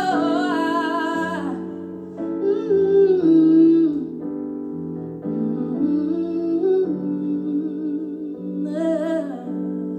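Live music: a female singer holds a long note, then sings short wordless phrases over sustained piano chords.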